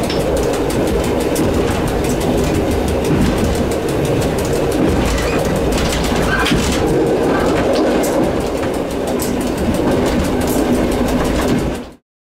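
EN57 electric multiple unit running along the line, heard from the driver's cab: a steady rumble of wheels on rail with irregular clicks and knocks from the track. The sound cuts off suddenly near the end.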